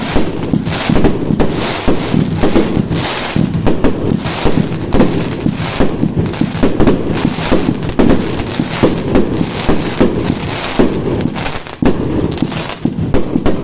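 Fireworks going off in a dense, unbroken barrage: overlapping bangs and crackles, several a second.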